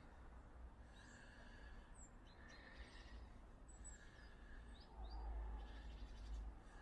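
Quiet rural ambience: a few faint, short bird chirps over a low rumble that grows louder about five seconds in.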